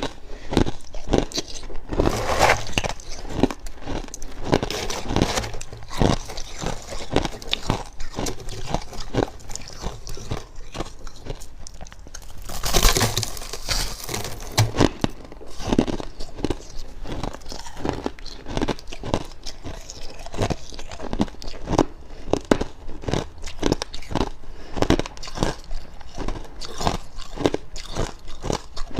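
Close-up crunching and chewing of fluffy freezer frost, dry and crackly, in quick irregular bites, with a louder, hissier crunch about halfway through.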